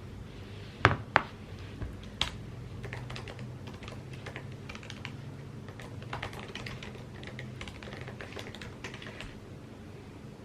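Typing on an Apple keyboard: quick, irregular key clicks, with two sharper, louder clicks about a second in.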